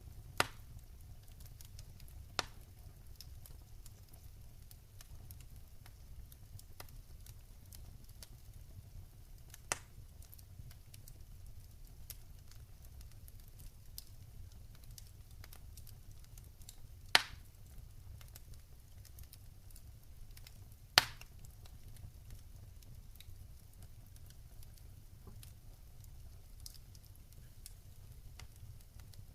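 Wood fire burning in a fireplace: a low steady rumble with a few sharp crackles and pops scattered through it, the two loudest pops a little past the middle.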